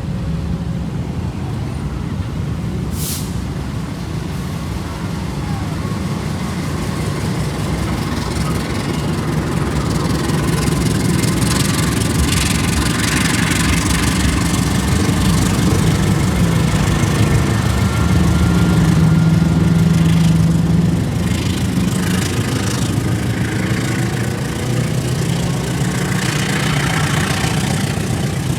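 Train in motion: a steady, loud low rumble of the running train with a low engine drone. It swells toward the middle, eases off a little after about 20 seconds, and there is one short sharp click about 3 seconds in.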